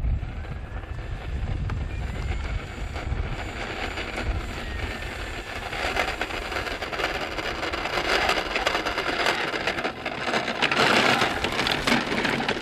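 Wind buffeting the microphone with a deep rumble, over the faint whine of an E-flite Carbon-Z Cessna 150's electric motor and propeller gliding in pitch. A broad rushing noise builds from a few seconds in and is loudest near the end.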